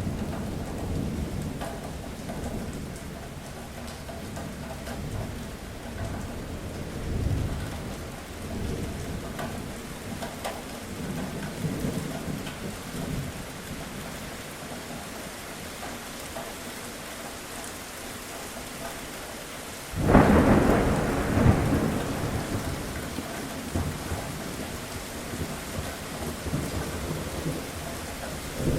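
Thunderstorm: steady rain with low rolling thunder. About twenty seconds in a sharp, loud thunderclap cracks, followed by a second burst and a rumble that fades back into the rain.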